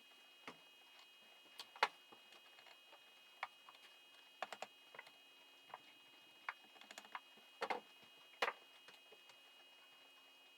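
Irregular light clicks and knocks of hand tools and small engine parts being handled, some in quick clusters, over a faint steady hum.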